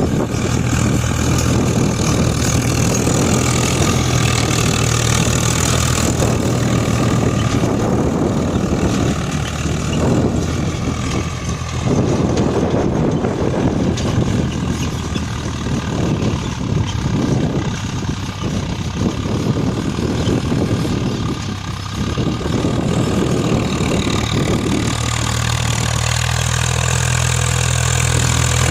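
Swaraj 745 XT tractor's three-cylinder diesel engine running steadily while ploughing, loud throughout.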